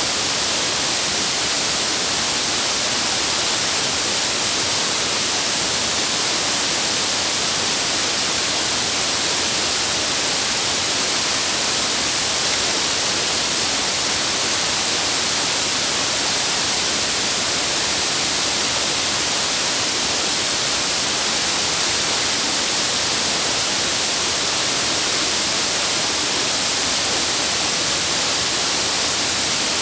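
Waterfall rushing: a loud, unbroken hiss of falling water, bright and even throughout.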